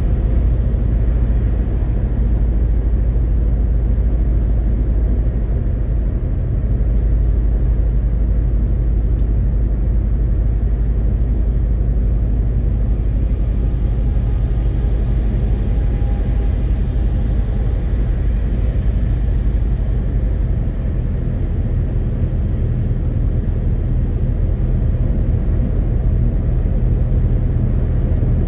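MAN TGX 18.520 truck's straight-six diesel engine and road noise: a steady low drone at cruising pace. The deepest note shifts slightly about two-thirds of the way through.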